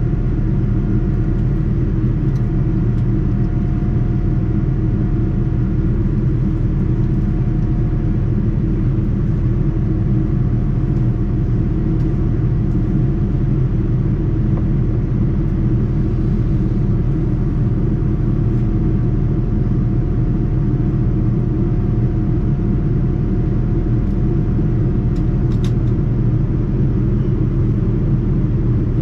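Steady cabin noise of a Boeing 787-9 airliner: an even low rumble of engines and airflow heard from inside the cabin, with a faint steady hum above it.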